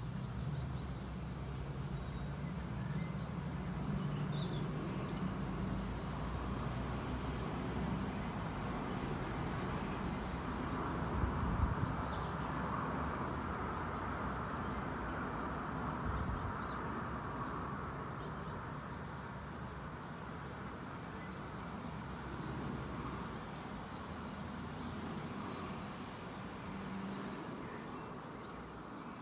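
Small garden birds giving short, high, thin chirps, repeated about once a second, over a steady low background rumble.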